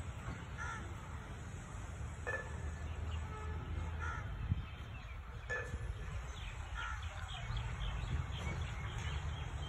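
Birds calling, short calls every second or two over a steady low rumble, with a single sharp tick about halfway through.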